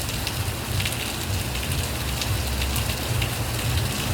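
Heavy rain falling steadily: an even hiss with scattered sharp drop hits, over a low rumble.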